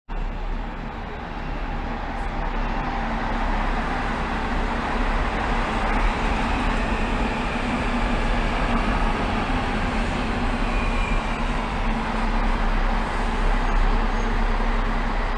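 Train noise in a station: a steady rumble and hiss with a constant low hum, slowly growing louder.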